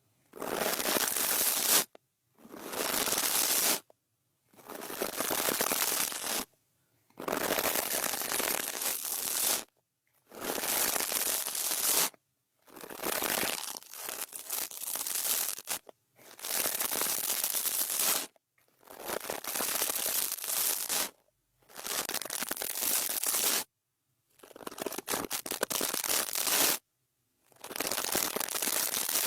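A brush swept over an ASMR microphone in long, slow strokes, about eleven of them, each a scratchy rustle of roughly two seconds with a short silent gap between.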